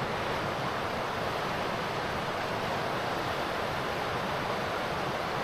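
River rapids rushing, a steady, even water noise.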